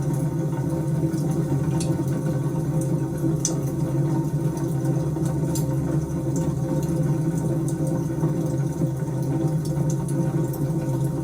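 Wood fire crackling, with sparse small pops over a steady low drone.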